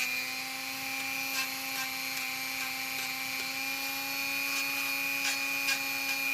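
Dremel rotary tool running steadily at high speed with a high whine, its sanding drum grinding down a dog's toenail.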